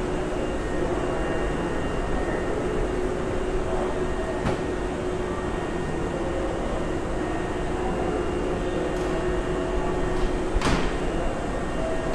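A Hankyu train standing at a station platform with its doors open: a steady hum and hiss of the idling train and platform, with two sharp knocks, about four and a half and ten and a half seconds in.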